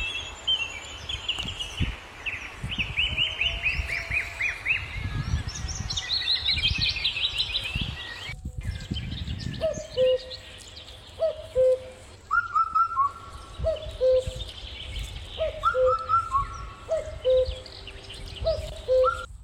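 Birds singing: quick trilled chirps over a low rumble for the first half, then, after a brief break, a low call repeated about every second and a half with shorter, higher notes above it.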